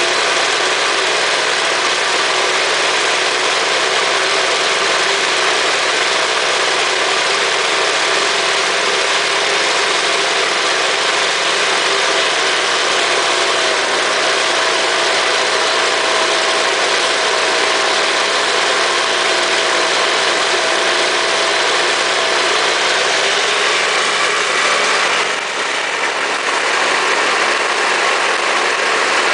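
Two-stroke Tecumseh engine of a Jacobsen snow blower running steadily just after a cold start. Its level dips briefly and its sound shifts near the end.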